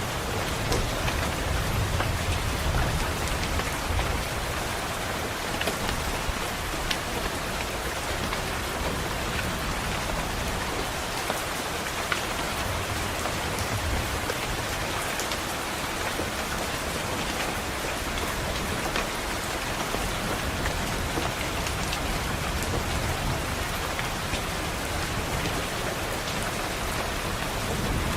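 Steady rain on a window, a dense hiss with fine tapping drops. A low rumble of distant thunder swells underneath, most strongly near the start.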